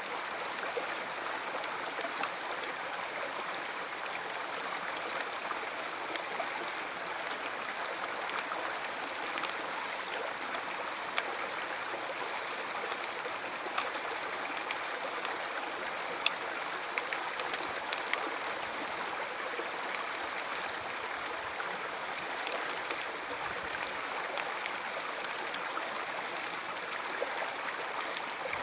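River water flowing steadily, a continuous rushing stream with scattered small splashes and trickles.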